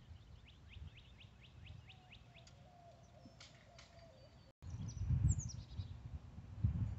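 Birds singing outdoors: a quick run of short, falling chirps, about five a second, for the first couple of seconds. After a cut about four and a half seconds in, a low wind rumble on the microphone sets in, with another bird's series of falling chirps over it.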